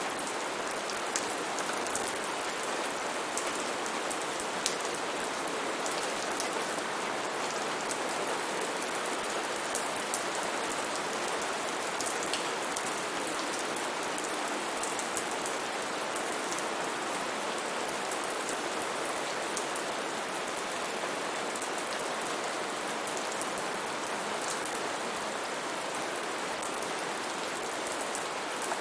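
Steady heavy rain falling on foliage, an even hiss with scattered sharper drop hits.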